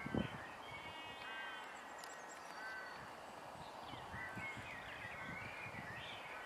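Birds calling and singing, many short chirps over a steady background hiss, with two soft low thumps right at the start.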